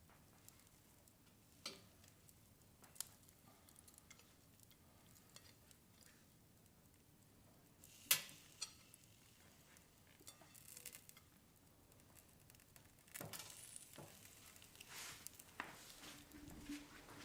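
Faint crackle of a wood fire in a fireplace, with scattered sharp pops; the loudest comes about halfway through. About two-thirds of the way in it turns into denser crackling and sizzling as the sauce-basted chicken skewers cook over the embers.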